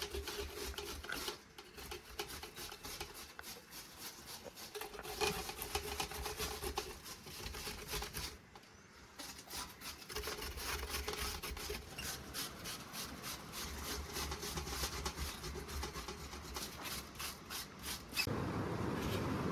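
Repeated rubbing or scraping strokes, irregular in pace, pausing briefly midway. Near the end they give way to a louder, steadier sound.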